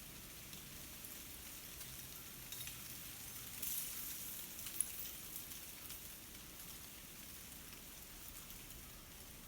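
Ice on tree branches cracking and crackling as the trees sway in a breeze, a steady fine crackle like light rain. A louder run of crackling comes after about three and a half seconds, with one sharp crack near five seconds.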